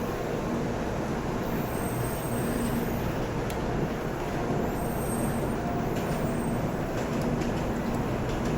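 Shinkansen train at a station platform, a steady rumble with a faint hum and a few light clicks.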